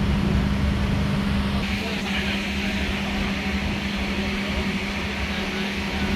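Steady mechanical hum and rumble inside a passenger railway carriage, with a constant low drone and an even hiss that grows louder about two seconds in.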